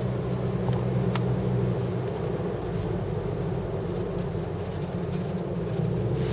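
Car driving uphill: steady engine hum and road noise.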